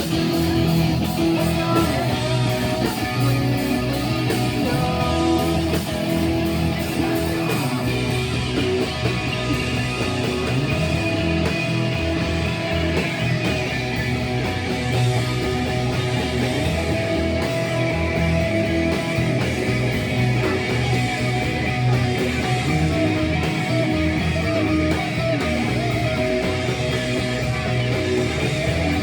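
Live rock band playing, electric guitar to the fore, with no break.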